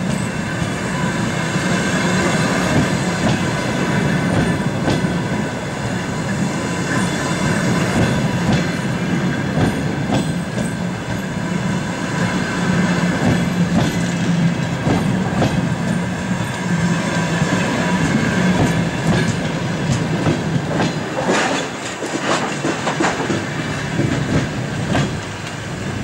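Passenger train coaches rolling slowly past while the train arrives at a station: a continuous wheel rumble with clicks over the rail joints and a steady high-pitched whine. A few sharper knocks come near the end.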